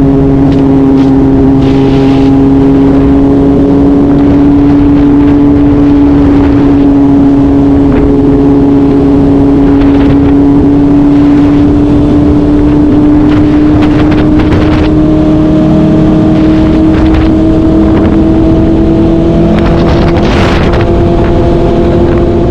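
BMW S1000 motorcycle's inline-four engine running steadily at highway speed, its pitch climbing slowly as the bike gradually gains speed, with wind noise underneath.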